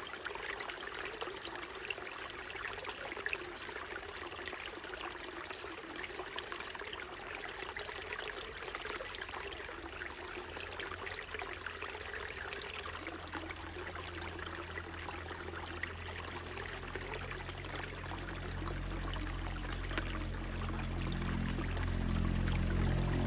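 Small mountain stream trickling and splashing over rocks. In the last several seconds a low, steady-pitched drone rises under the water and grows steadily louder.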